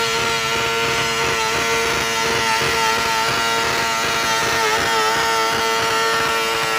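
A tractor puller's engine running hard at high, nearly steady revs, with small wavers in pitch, as during a pull.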